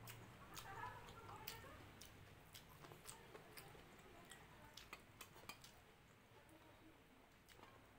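Faint eating sounds of rice and dal being chewed, eaten by hand: scattered soft mouth clicks that thin out in the second half.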